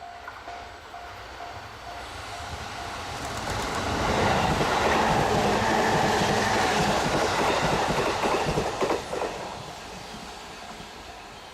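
A freight train passes at speed. The rumble and wheel noise build over about four seconds, stay loud for about five seconds with wheel clatter, then fade. A pulsing tone, about two beats a second, sounds at the start and returns near the end.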